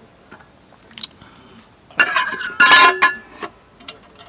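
Small loose screws clinking and rattling against metal. Scattered light clicks come first, then a loud clatter with a ringing tone about two seconds in that lasts about a second.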